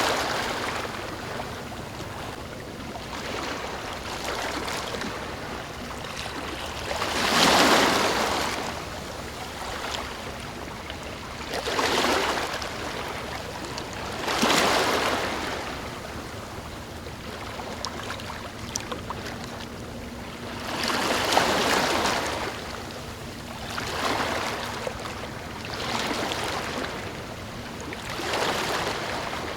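Ocean surf: a steady wash of water with waves breaking and surging every few seconds, the largest about a quarter of the way in and again about two-thirds through.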